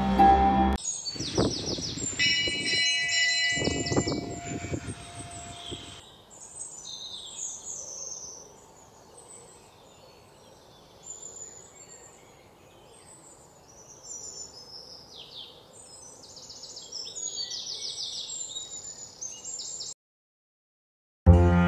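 Wild birds chirping and calling over a faint background hiss. A loud burst of calls with a few low thumps comes in the first few seconds, followed by quieter, scattered chirps. The sound cuts off suddenly shortly before the end.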